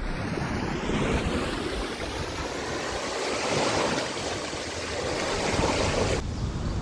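Strong wind rushing over the microphone with waves on the reservoir breaking against the shore. The high hiss drops away a little before the end.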